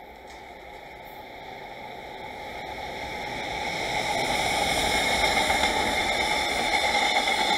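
Freight train passing: a JR Freight EF510 electric locomotive hauling an unpowered, towed DD200 diesel locomotive and container flatcars. The rolling noise of wheels on rail grows steadily louder as it approaches and stays loud from about halfway through.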